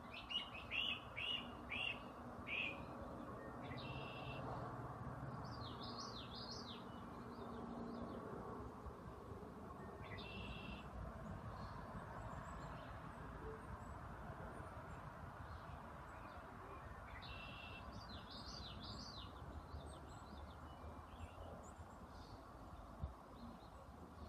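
A small bird chirping faintly in short runs of quick notes: about five at the start, another run around six seconds in and another near nineteen seconds, over a steady low hum.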